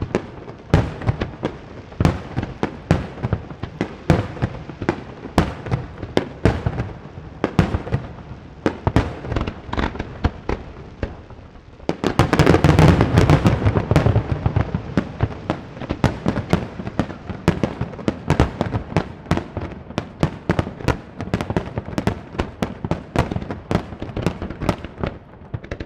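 Fireworks display: aerial shells bursting in quick succession, several sharp bangs a second, with a denser, louder barrage of bursts about halfway through.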